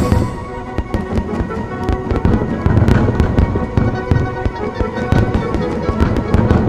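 Fireworks bursting and crackling, many sharp bangs a second, over music with steady held notes.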